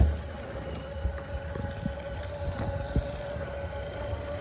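Children's electric ride-on motorbike running: a steady high motor whine over a low rumble, with a few light knocks.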